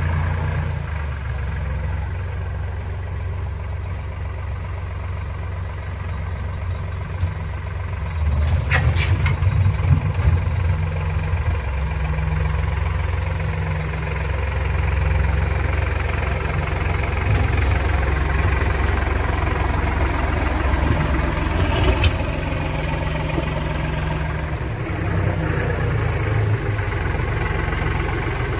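Kioti DK65 tractor's diesel engine running steadily, getting louder about eight seconds in and staying up. Two sharp knocks come through, about nine seconds in and again near twenty-two seconds.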